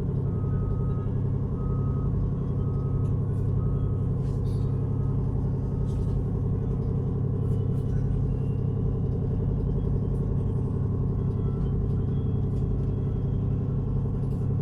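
Steady low rumble of a ship's engines and machinery, with a run of short, evenly spaced electronic beeps for about the first six seconds, like a bridge equipment alarm.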